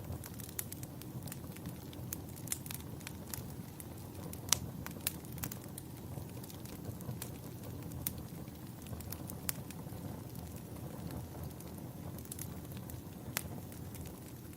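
Campfire burning with a steady low rumble and irregular sharp crackles and pops of wood, the loudest pop about four and a half seconds in.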